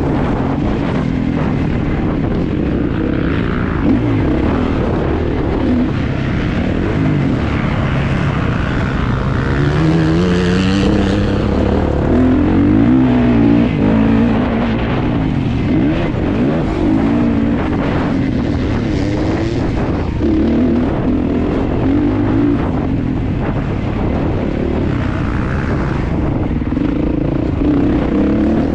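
Kawasaki KX450 motocross bike's four-stroke single-cylinder engine running hard, its revs repeatedly rising and falling through throttle and gear changes, with a long climb in pitch about ten seconds in.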